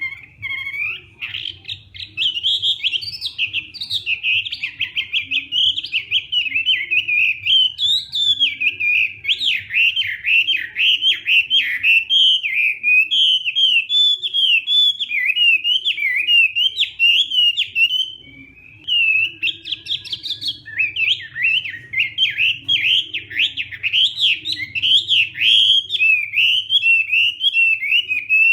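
Chinese hwamei (hoạ mi) in full contest song: a long, fast run of varied, sliding whistled phrases. It breaks off briefly about two-thirds of the way through, then resumes.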